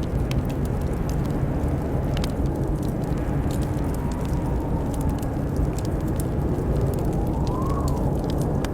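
Wind howling in a low steady rumble with a faint whistle that wavers in pitch, rising and falling near the end, over the scattered pops and crackles of a wood fire.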